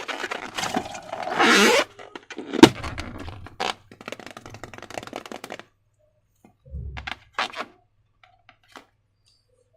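Hands working slime-making materials: scraping and crackling, with a sharp loud snap about two and a half seconds in, then only a few short faint sounds after about five and a half seconds.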